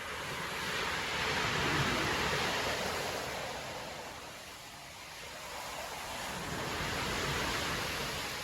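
Storm surf breaking on a beach: a wave crashes and washes in, loudest about two seconds in, fades, and a second wave swells near the end.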